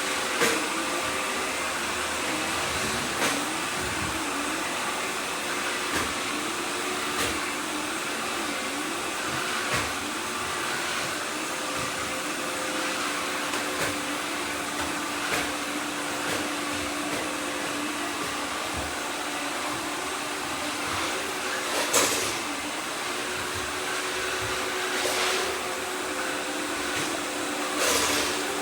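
Several robot vacuums running at once: a steady whir of motors and brushes, with a few short knocks scattered through.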